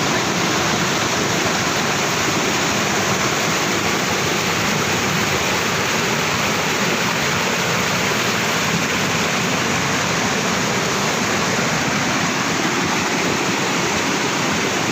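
Small waterfall: water rushing steadily.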